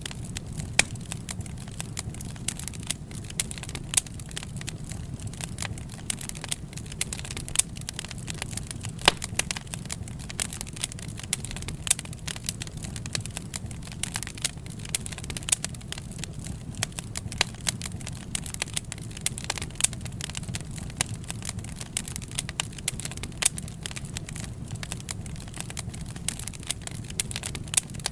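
Wood fire crackling: frequent, irregular sharp pops and snaps from burning logs over a steady low rumble of the flames.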